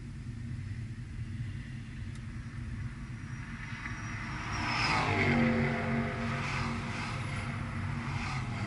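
Car engine running at part throttle, heard from inside the cabin with road and tyre noise at around 45 mph. About halfway through it swells louder, with a falling sweep, then settles into a steady drone.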